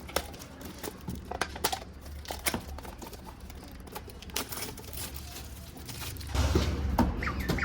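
Snack packaging crinkling and rustling as it is handled, with scattered sharp clicks; a louder low rumble of handling comes in near the end.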